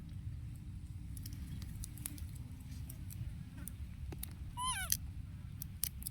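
One short cry from a small young animal about three-quarters of the way through, arching slightly up and then falling in pitch. A steady low rumble and a few light clicks run underneath.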